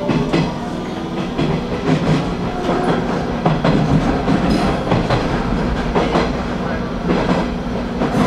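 Hanshin Railway commuter train running, its wheels clacking over rail joints at irregular intervals over a steady low rumble.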